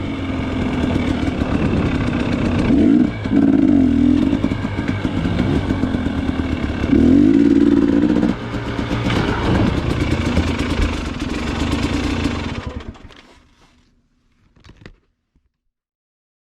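Dirt bike engine revving up and down while riding, the pitch rising and falling repeatedly; it fades out about thirteen seconds in, leaving silence.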